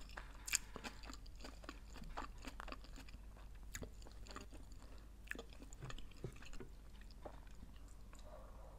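A person chewing a mouthful of food, a quiet run of many small mouth clicks.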